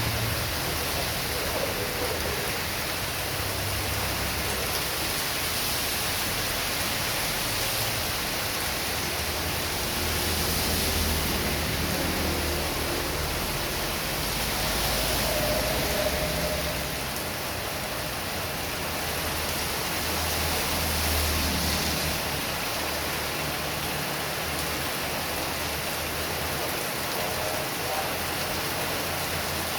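Heavy rain pouring steadily, swelling a few times as strong wind gusts drive it, with a low rumble underneath.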